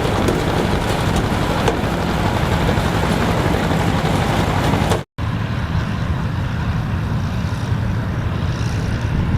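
Engine of old farm harvesting machinery running steadily under load, a low drone with mechanical clatter. About five seconds in it cuts out for a split second and comes back duller.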